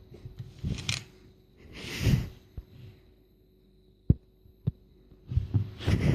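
Handling noise close to the microphone: low thumps and rustling bursts, with two sharp clicks a little after the middle, as toy cars are picked up and put down.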